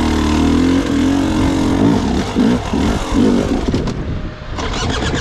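Gas Gas EX 300 two-stroke dirt bike engine pulling at low speed, its revs rising and falling in short pulses as the throttle is worked on and off, dropping away briefly about four seconds in before picking up again.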